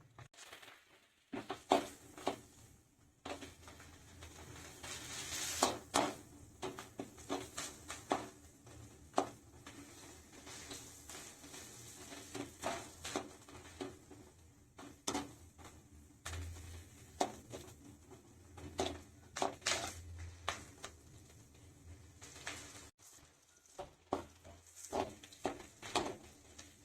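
A spatula stirring onions and dried red chillies in hot oil in a frying pan, with irregular knocks and scrapes against the pan over a faint sizzle.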